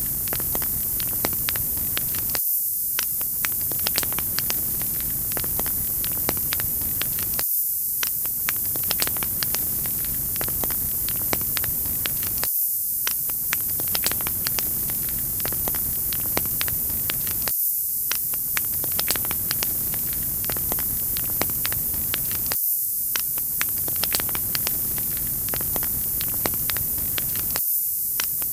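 Wood fire crackling, with frequent sharp pops and snaps over a steady bright hiss; the sound repeats itself about every five seconds, as a looped recording.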